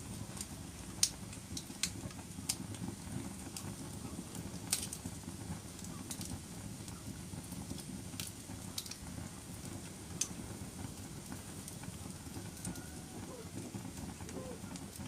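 Wood fire burning in a fireplace: a steady low rush of flames with sharp, irregular crackles and pops.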